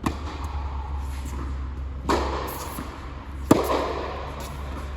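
Tennis ball struck and bouncing during a rally: four sharp pops, roughly one every second and a half, the loudest about three and a half seconds in, each with a short echo, over a steady low hum.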